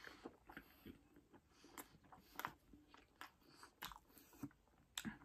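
A person chewing food close to the microphone: faint, irregular wet mouth clicks and small crunches, with a few louder crunches about two and a half, four and five seconds in.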